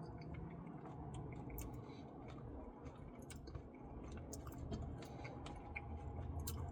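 Close-miked chewing of a Reese's Pieces cookie dough Blizzard: soft, irregular wet mouth clicks and smacks.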